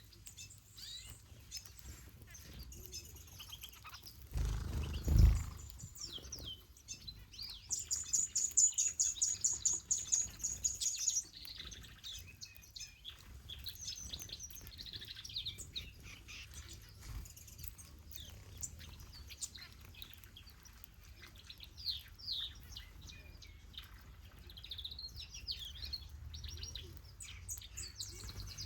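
Aviary finches and softbills chirping and calling, many short high chirps overlapping. About four seconds in comes a loud low thump lasting about a second. From about eight to eleven seconds one bird repeats a fast, high-pitched trill.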